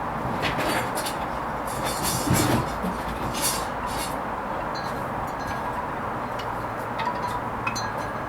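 Hoover Vision HVP16 washing machine partway through its Silks 30 wash: a steady running noise with irregular clicks and clinks from the turning drum, and a louder knock about two seconds in.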